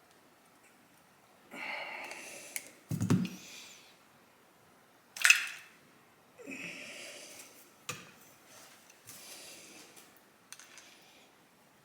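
Handling noises at a workbench during carburetor work: several short hissy rustling bursts, a dull knock about three seconds in, a sharp click about five seconds in, and a few lighter clicks later.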